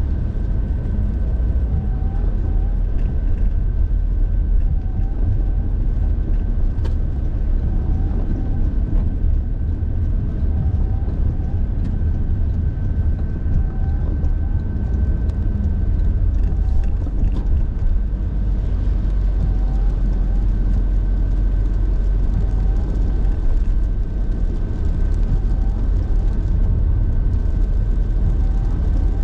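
Car driving at a steady speed: a continuous low rumble of road and engine noise with a thin steady whine, and a faint short chirp recurring every couple of seconds.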